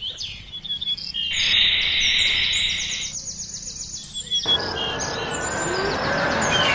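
Birds chirping in rapid, high runs. A steady hiss comes in about a second in, stops about three seconds in, and a rougher broad noise takes over in the second half.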